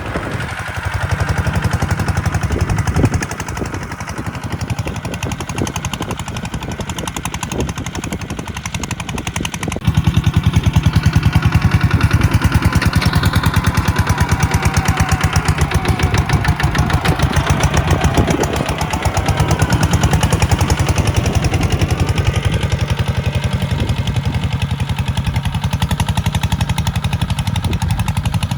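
Kubota tractor's diesel engine running with a rapid, even thumping. It gets louder about ten seconds in, as if under more throttle or load.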